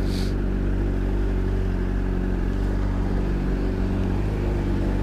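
Honda CBR125's single-cylinder engine running at steady revs while riding, under steady road and wind noise.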